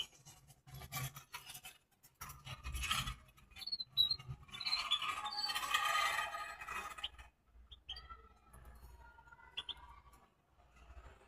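Rustling and scraping of a small cage bird handling nesting material, with a few short high chirps about four seconds in.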